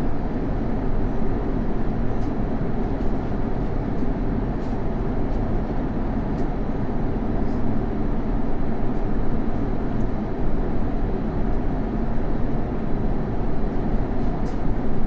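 Steady airliner cabin noise in cruise aboard an Airbus A350-900: an even rush of airflow and engine sound, heaviest in the low end, with a few faint ticks.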